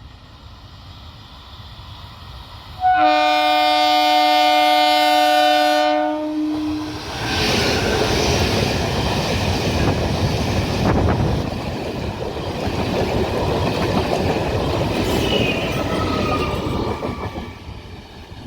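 MEMU electric multiple-unit local train sounding one long horn blast of about three to four seconds, then passing close by with loud running and wheel noise. A brief high squeal comes near the end, and the noise fades off.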